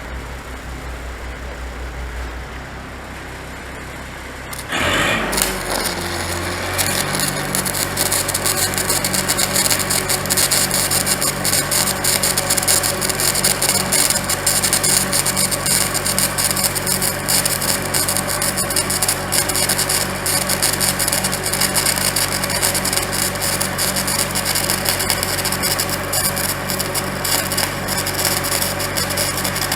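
A low steady hum, then about four and a half seconds in a handheld power grinder starts, spins up to speed and grinds steadily on steel, working down a fresh weld repair on a backhoe boom.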